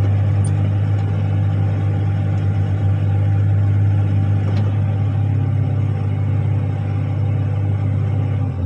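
Articulated dump truck's diesel engine running steadily, a deep even drone.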